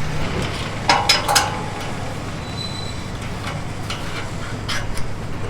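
Steady low mechanical rumble with a cluster of sharp metallic clanks about a second in, and a few fainter clicks near the end.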